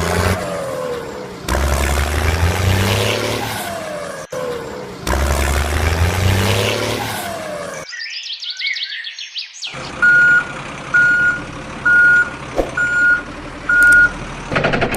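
Truck engine running and revving in chunks that start and stop abruptly, followed by a reversing alarm beeping five times, about once a second.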